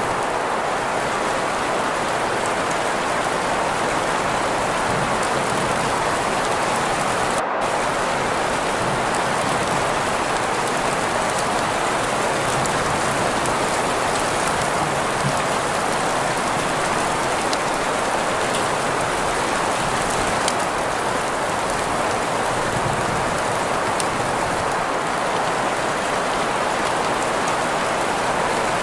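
Steady rain on a surface blended with green noise: a constant, even hiss centred in the middle range, with faint scattered drop ticks. There is a split-second break in the upper hiss about seven and a half seconds in.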